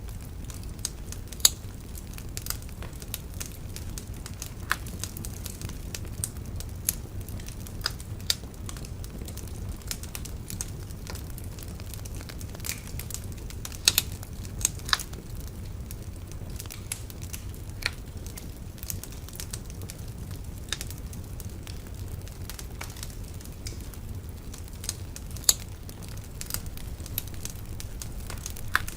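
Wood bonfire burning with a steady low rumble and frequent irregular crackles and pops, a few sharp snaps louder than the rest.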